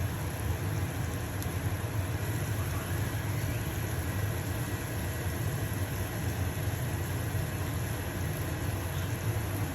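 Stove-top range hood fan running with a steady low hum, over the even sizzle of a pancake frying in a pan.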